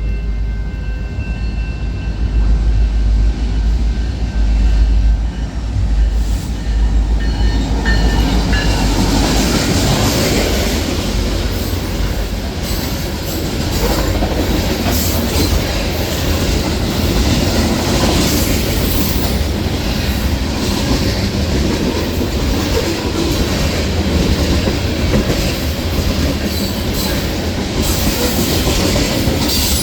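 Train passing close by: a deep engine rumble for the first several seconds, then the rail cars rolling past with a steady rush and the clack of wheels over rail joints.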